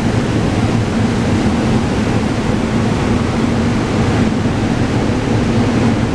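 SEPTA Regional Rail electric train running through an underground station: a steady, loud rumble of wheels on rails with a low hum underneath, echoing off the station walls.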